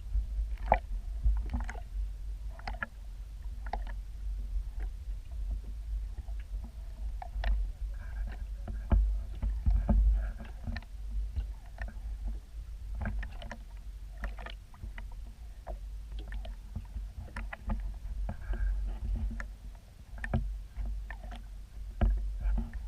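Water moving around a small boat: a steady deep rumble with many scattered short knocks and clicks.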